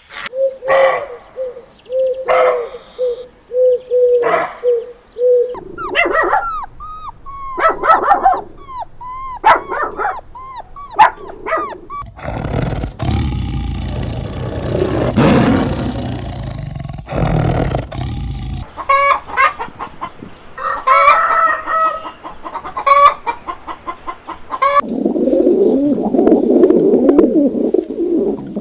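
A sequence of farm-animal calls from chickens, with hens clucking and a rooster crowing.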